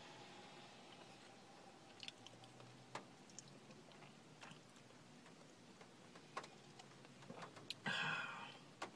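Quiet chewing of an everything bagel with cream cheese, with scattered soft mouth clicks and a short, louder noise about eight seconds in.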